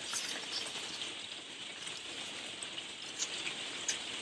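Paper being handled and folded: a faint, even rustle with a couple of light ticks near the end.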